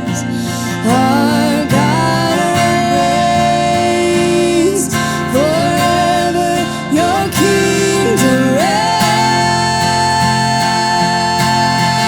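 Acoustic worship music: acoustic guitar playing under long, held wordless singing that slides up into each note.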